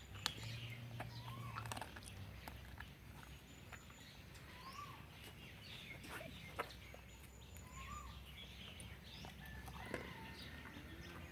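Faint outdoor background of scattered short bird calls, each a quick rising-and-falling note, over a low steady hum.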